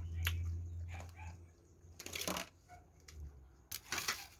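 Close-up eating sounds: a few short crunching, crackling bursts as salad is bitten and chewed, about two seconds in and again near the end, with a low hum in the first second or so.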